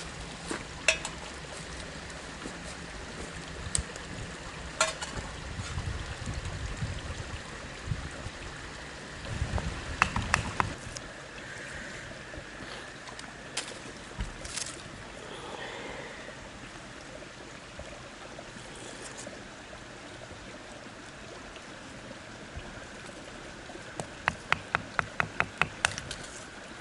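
Steady sound of running water, like a stream, with scattered sharp clicks and knocks. Near the end comes a quick run of about ten evenly spaced clicks.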